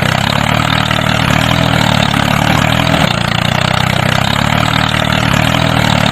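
Small engine of a homemade mini tractor running steadily at an even, idle-like speed.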